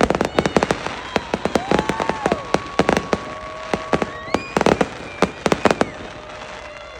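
Fireworks display: a rapid, irregular series of sharp bangs and crackles, densest at the start and again past the middle.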